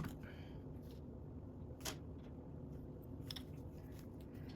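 Faint room tone with a couple of sharp clicks of plastic Lego pieces being handled and placed, one about two seconds in and a softer one a little over a second later.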